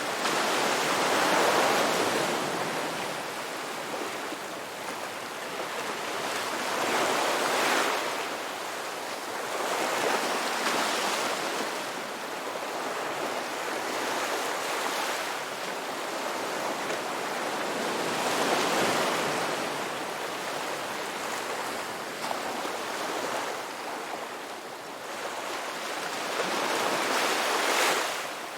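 Ocean waves breaking and washing up on the shore, a continuous hiss of surf that swells and fades with each wave, several times over; the loudest breakers come about a second in and near the end.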